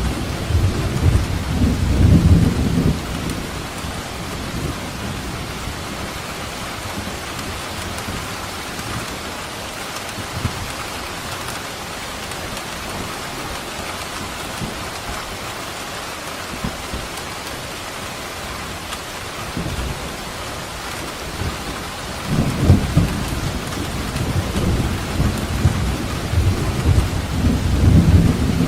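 Steady heavy rain with rolling thunder: a low rumble in the first few seconds, then rain alone, then the thunder rumbling again for the last several seconds.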